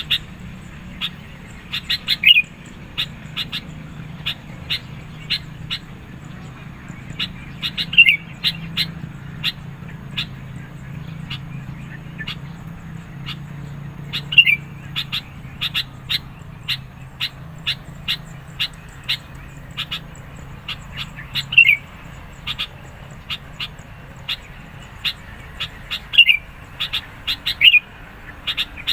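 Sooty-headed bulbul (kutilang) calling insistently: a steady series of short, sharp chips, one to two a second, broken every few seconds by a louder, quick falling call.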